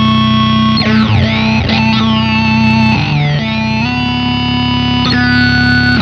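Electric guitar played through an EarthQuaker Devices Data Corrupter PLL synth/harmonizer pedal, giving buzzy synth tones stacked with octaves. The tones hold a note and then swoop in pitch to the next one every second or so.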